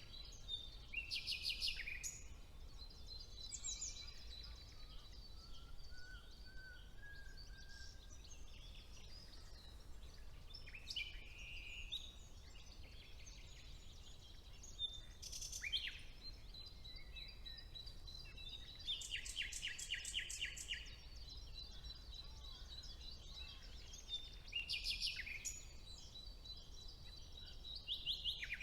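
Woodland songbirds singing: short phrases of rapid trilled notes every few seconds, the longest a fast run of repeated notes about two-thirds of the way through. A thin, steady high tone runs underneath, over a low background rumble.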